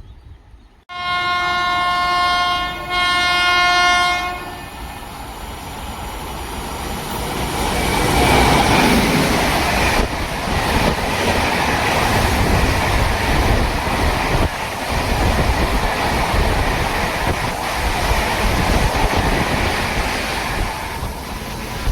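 Indian Railways electric locomotive sounding its horn in two blasts, a longer one then a shorter one. A train then approaches and passes at speed: a loud, steady rumble of wheels on rails with occasional knocks at rail joints.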